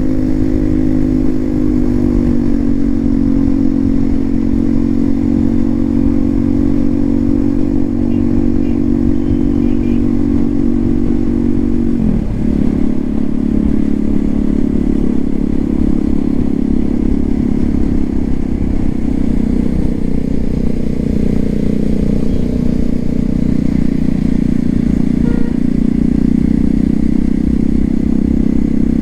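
Exhaust note of a Hero XPulse 200 4V single-cylinder motorcycle engine through an aftermarket SC Project silencer, running steadily. The pitch eases slightly over the first couple of seconds and dips briefly about twelve seconds in.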